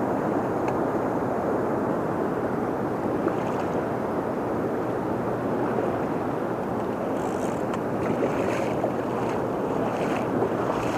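Steady rushing of flowing river water, an even wash of noise with a few faint ticks over it.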